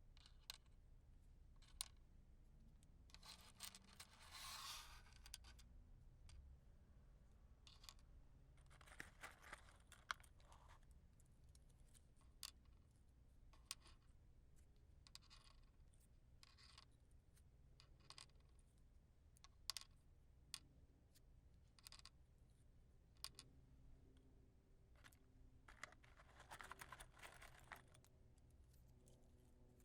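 Faint handling of wooden matches: many small clicks and taps, and three rushes of scratchy noise lasting a second or two each, from striking, flaring or blowing out matches.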